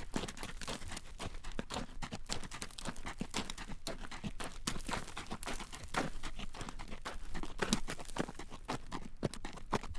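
Horse's shod hooves clip-clopping on a paved road at a walk, an irregular run of sharp clacks several times a second, over a low rumble of the carriage.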